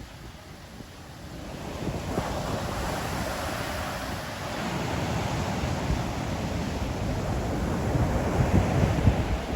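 Ocean surf: a wave breaking and washing in, the rush of water building about two seconds in and holding, with low rumbling of wind on the microphone near the end.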